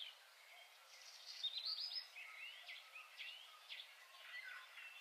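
Faint birdsong: many short chirps and twitters from small birds.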